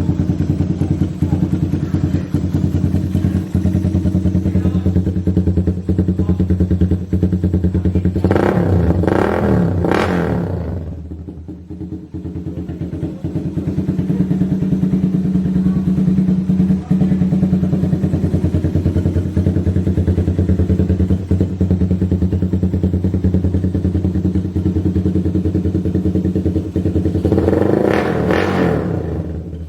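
Suzuki Raider R150's single-cylinder four-stroke engine running through a VMAX Stage 2 conical exhaust with the silencer insert removed, idling steadily and revved twice: a third of the way in and again near the end.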